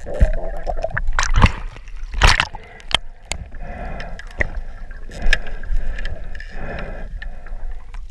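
Water gurgling and sloshing around the camera, with scattered knocks and two louder rushing bursts in the first few seconds.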